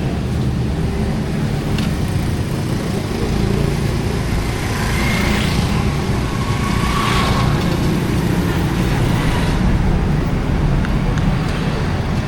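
Street traffic: motor vehicle engines running steadily. One vehicle passes close about halfway through, growing louder and then fading.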